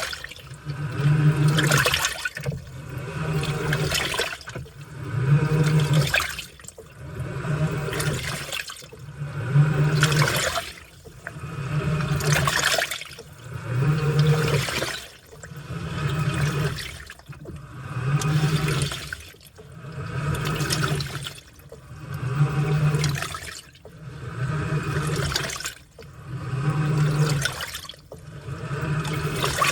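Washing machine in its wash cycle, agitating: water sloshing and churning in regular swells about every two seconds, each with a low motor hum as the drive turns, then a short lull between strokes.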